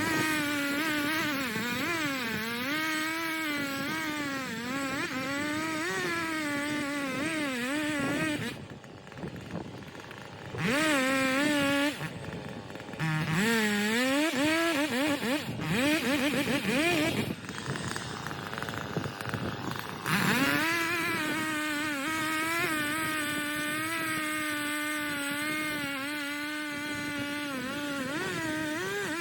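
Two-stroke chainsaw running at high revs while cutting into a maple log, its pitch sagging and recovering as the chain bites. The saw drops back off full throttle a few times. The owner says the saw is running lean and its carburettor has not been tuned yet.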